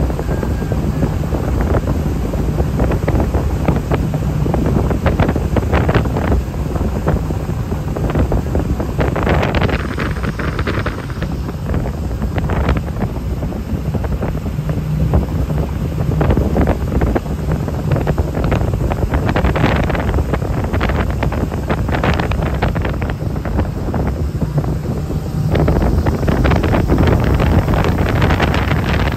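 Jet boat running at speed, its engine a steady low drone under heavy wind buffeting the microphone.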